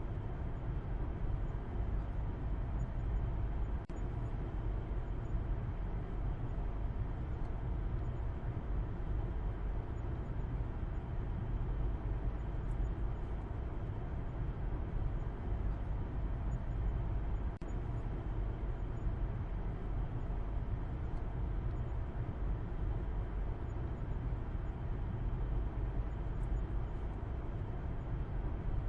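Steady low rumble of a car driving, road and engine noise with no change in speed, heaviest in the bass. The sound dips briefly twice, about four seconds in and again about two-thirds of the way through.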